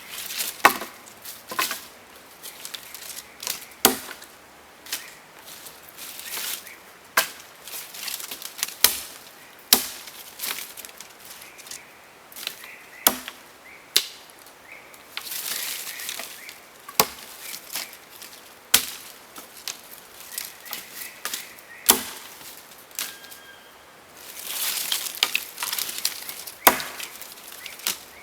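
Wood being chopped: sharp, irregular chopping knocks about every one to two seconds, with short spells of rustling noise between them.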